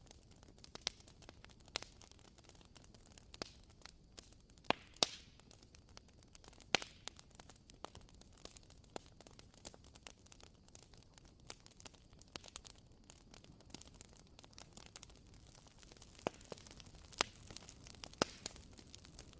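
Wooden wick of a WoodWick candle crackling as it burns: faint, irregular sharp pops and ticks, a few each second, over a soft steady hiss.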